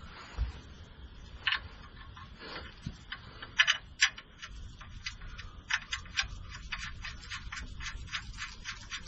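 Light, irregular clicking and ticking: a few separate clicks at first, then several a second from about three seconds in, over a low steady hum.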